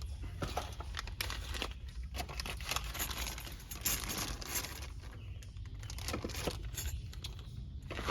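Crinkling and rustling packaging as new brake pads and their hardware are unpacked and handled, with many small irregular crackles and clicks.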